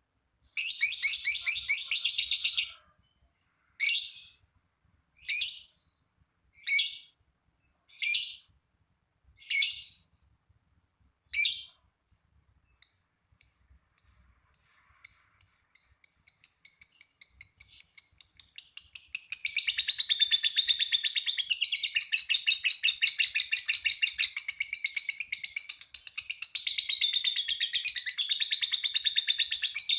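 Lovebird singing: a short chattering burst, then single shrill calls about every second and a half, speeding up into a long unbroken rapid chatter, the 'ngekek' song, which grows louder about two-thirds of the way through.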